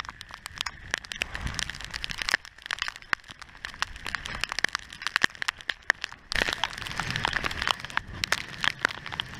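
Rain and sea spray striking the camera's waterproof housing as an inflatable boat runs through a squall: a dense mass of irregular sharp clicks over a rushing background. It grows louder about six seconds in.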